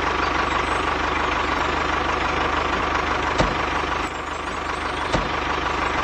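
Small motor of a homemade model machine running steadily with a constant whine. Two sharp clicks come in the second half.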